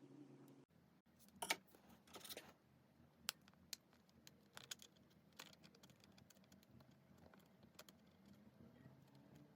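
Faint scattered clicks and light rattles of small hard objects being handled, the loudest about one and a half and two and a half seconds in.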